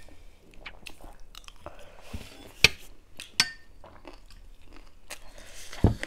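Close-miked chewing of crunchy dry chatpate, a spicy puffed-rice snack mixed with chicken: a run of crisp crunches and crackles with a few sharper snaps, the strongest about two and a half seconds in and just before the end.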